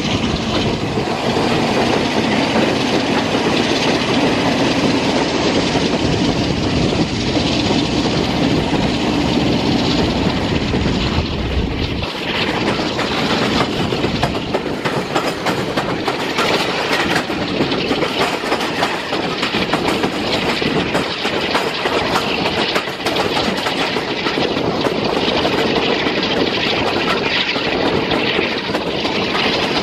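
Train coaches hauled by a Class 47 diesel locomotive, heard from a carriage window: wheels clattering over rail joints in a steady clickety-clack with rushing air. About twelve seconds in the sound changes as the coach runs close alongside another train on the next track.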